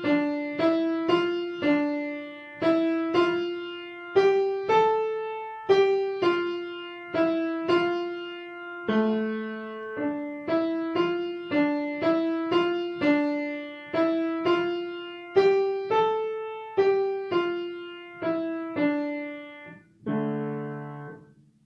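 Piano playing a simple beginner melody in D position, one note at a time at about two notes a second, with a few low notes from the left hand. It ends on a held chord that fades away.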